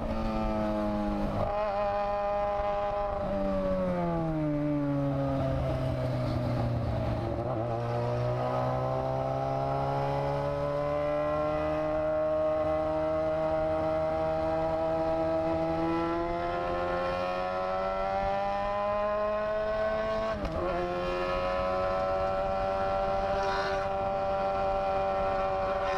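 Motorcycle engine running while riding. Its pitch drops about four seconds in, then climbs slowly for over ten seconds, with a brief dip and a jump in pitch about twenty seconds in.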